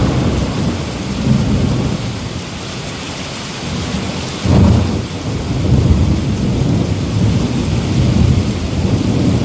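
Heavy rain falling steadily, with rolling thunder rumbling through it; a louder peal of thunder breaks in sharply about halfway through and rolls on.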